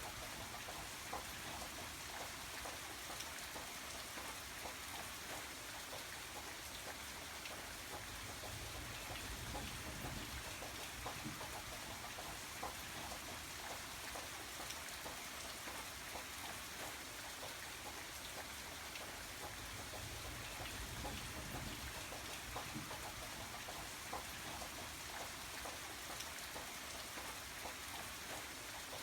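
Steady rain falling, with many small individual drops ticking through the steady hiss.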